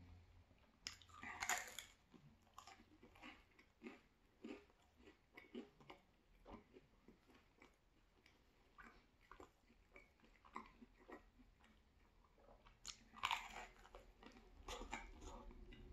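A person chewing thin-crust cheese pizza, with many small wet mouth clicks. There is a louder crisp bite about a second in and another near the end.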